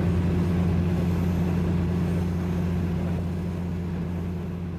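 Diesel train running, heard from on board as a steady low engine drone that gradually fades out.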